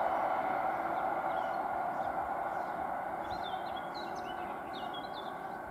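Small birds chirping in short, quick calls over a steady background rush that slowly fades.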